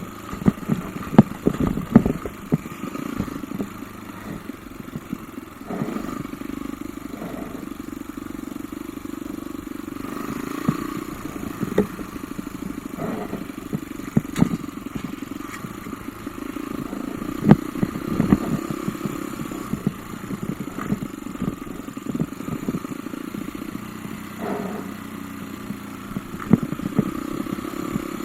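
Off-road motorcycle engine running steadily at moderate revs, with frequent sharp clattering knocks throughout.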